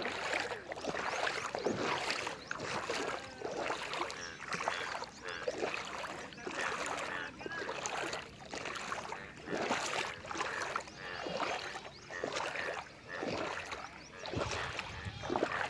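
Water splashing and sloshing in repeated bursts about once a second, like steps through standing rainwater.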